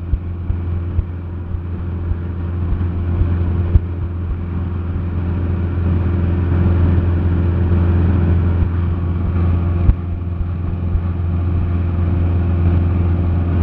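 Cessna 172SP's four-cylinder Lycoming engine and propeller droning steadily in cruise flight, a constant low hum with a couple of brief clicks.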